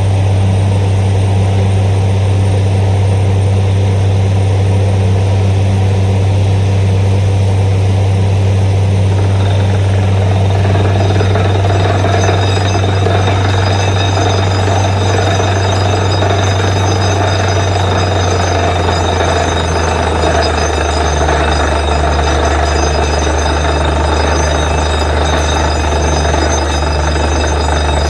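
Borewell drilling rig running steadily with a deep engine hum. About ten seconds in a harsher, noisier sound joins it, and a little before twenty seconds the hum drops slightly in pitch.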